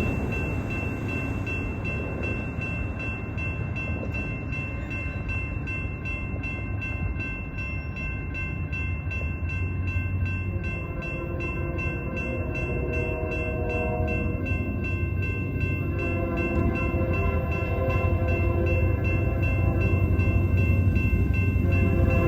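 Union Pacific diesel freight locomotive approaching, its engine rumbling and its air horn sounding, growing louder as it nears. The horn's chord comes in fuller from about halfway through.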